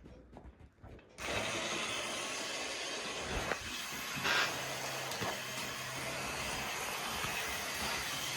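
Model train locomotive running along its track: the motor and gears start about a second in and then whir steadily, with a few light clicks.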